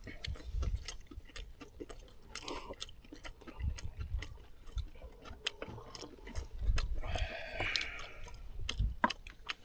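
Eating at a table: chewing and many short clicks and taps of chopsticks and utensils against dishes, with soft low thumps. About seven seconds in there is a short muffled call.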